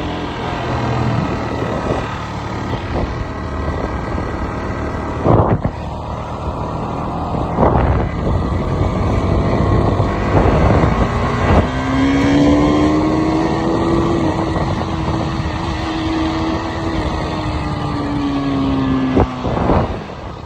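KTM 390 Duke's single-cylinder engine running under way, its revs climbing and dropping several times with a few sharp breaks, then holding a fairly steady pitch for several seconds in the second half.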